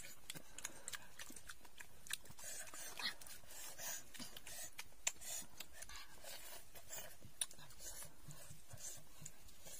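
Close-up eating sounds: wet chewing and lip smacks as cooked fish is eaten by hand, with many small sharp clicks throughout and one louder click about halfway through.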